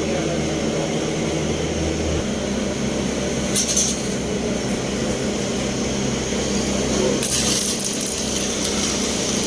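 Steady hum of a running machine, its pitch shifting about two seconds in, with a short burst of hiss about three and a half seconds in and a longer hissing noise from about seven seconds.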